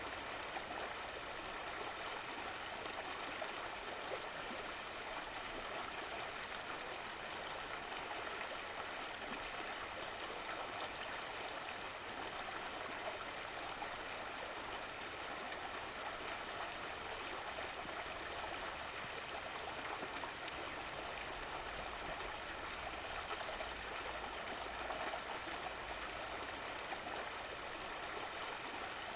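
Running water of a stream or brook, a steady, even rushing and babbling without pauses.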